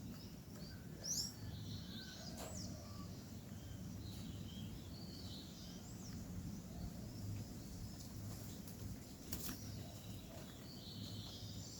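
Faint, scattered bird chirps and short twittering calls over a steady low background rumble, with a couple of brief sharp clicks.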